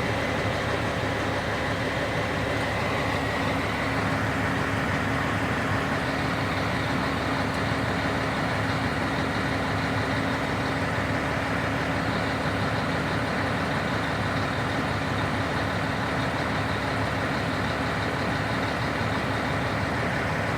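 Scania 113 truck's 11-litre inline-six diesel engine running steadily.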